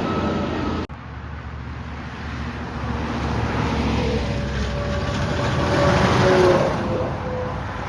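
A road vehicle driving past: the road noise swells to a peak about six and a half seconds in and then eases, with a faint engine tone that drops a little in pitch as it goes by. The sound cuts out abruptly for an instant about a second in.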